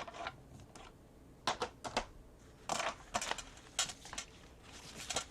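Scattered light clicks, taps and rustles of craft materials and tools being handled on a work table, about eight short sounds with brief pauses between.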